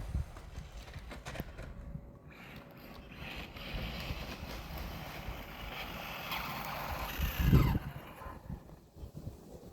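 Radio-controlled rally car driving off-road: its electric motor whining and its tyres scrabbling over rough ground, with a loud thump about seven and a half seconds in.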